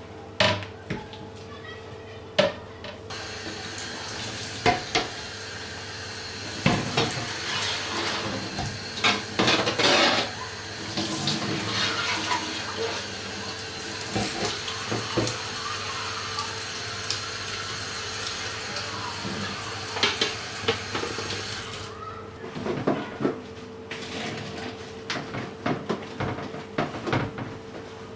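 Kitchen tap running into a sink while things are washed, with clinks and knocks of items being handled. The water stops about three-quarters of the way through, and the clatter of handling goes on, over a faint steady hum.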